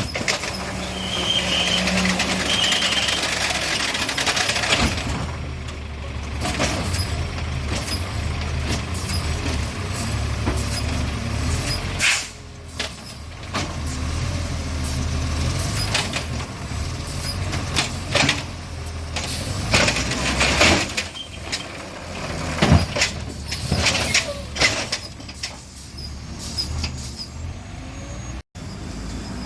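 Garbage truck engine running steadily, with air-brake hisses and repeated metallic clanks and bangs on top. A short high beeping comes twice about a second or two in.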